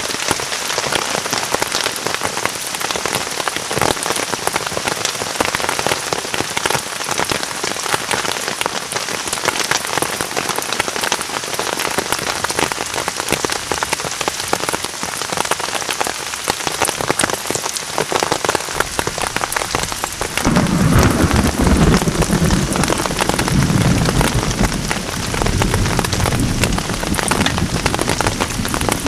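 Heavy rain falling steadily, then a long low roll of thunder about two-thirds of the way through that rumbles for several seconds.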